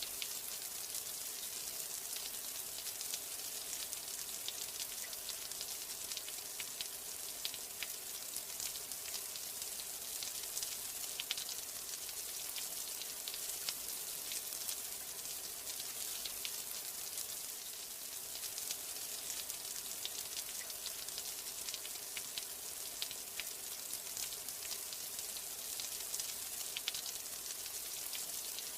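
Steady rainfall, a dense even hiss with many small drops ticking sharply on a hard surface.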